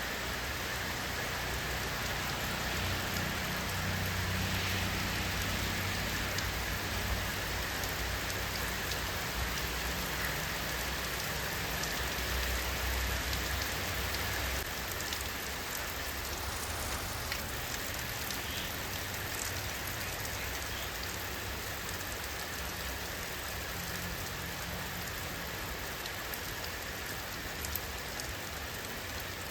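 Steady rain falling, an even hiss with scattered drop ticks. A low rumble sits under it for the first half and then eases off.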